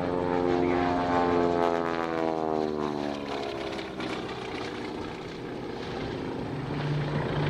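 Twin Pratt & Whitney R-985 Wasp Junior radial engines of a Beech C-45 Expeditor taxiing past at low power. The propeller and engine note slides down in pitch over the first three seconds as it goes by, then fades to a duller rumble that swells again near the end.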